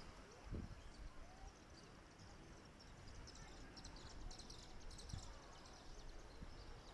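Quiet outdoor ambience with a faint burst of high chirping from small birds, about three to five seconds in.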